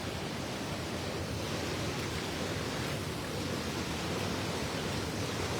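Steady rushing of a swift river current.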